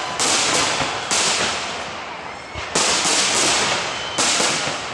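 Aerial firework shells bursting overhead, about five sharp reports. Each is followed by a long crackling hiss that fades away before the next burst.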